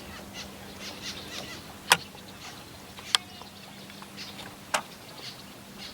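Quiet open-air background with a faint steady hum, broken by three sharp clicks spaced a second or more apart.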